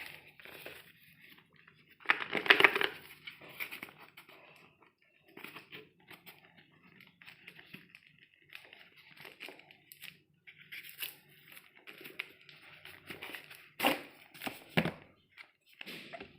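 Packaging being handled and torn open: irregular rustling and crinkling, with a loud tearing, crinkling burst about two seconds in and two sharp clicks near the end.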